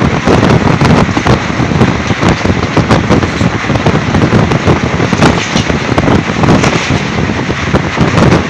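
An Indian Railways freight train's open-top wagons passing close at speed: a loud, continuous clatter and rattle of steel wheels on rail and wagon bodies, packed with quick, irregular knocks.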